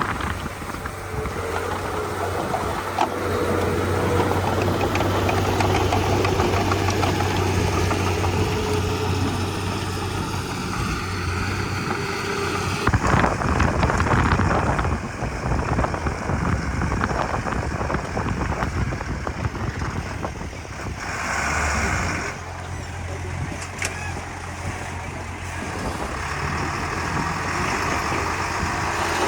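Crawler bulldozer's diesel engine running steadily. About 13 seconds in it turns to a harsher, clattering, noisier sound for several seconds, then settles back to a steady engine hum.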